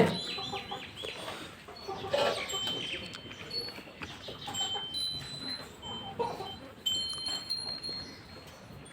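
Birds chirping: a quick run of short chirps at the start, then scattered clear, high, ringing notes held briefly, over a low farmyard background.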